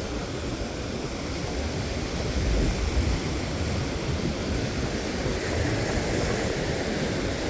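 Ocean surf breaking, mixed with wind on the microphone: a steady noise that swells briefly about two and a half seconds in.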